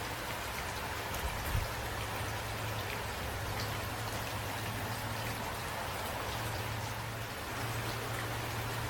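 Steady rain falling, with individual drops ticking on a surface over an even hiss, and a low steady rumble underneath that swells briefly about one and a half seconds in.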